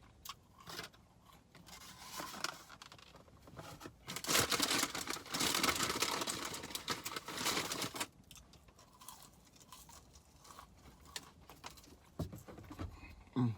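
Paper fast-food packaging being handled and rustled, with a loud stretch of dense crackling from about four to eight seconds in, then quieter small rustles.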